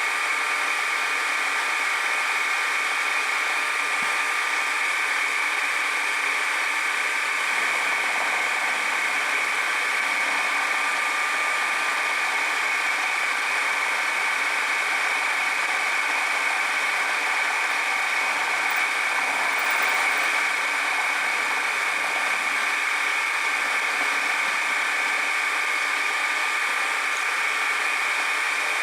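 A machine or power tool running steadily, giving a constant whirring hiss with a steady whine on top.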